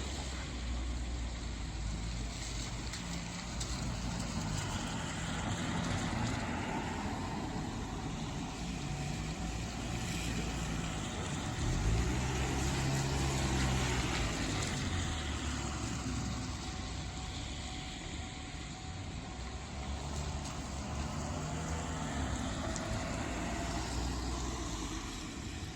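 Vehicle noise: a steady rumble with engine notes that rise and fall as vehicles move past, the loudest pass about twelve seconds in.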